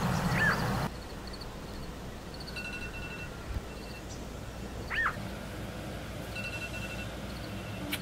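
Outdoor ambience with birds calling: a run of short swooping calls over a low steady hum that stops abruptly about a second in, then quieter background with a few sparse whistled notes and one more swooping call about five seconds in.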